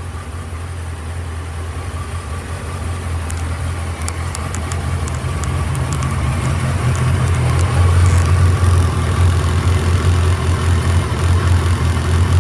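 Suzuki GSX1300R Hayabusa's inline-four engine idling steadily, growing gradually louder over the seconds, with a few faint high ticks in the middle.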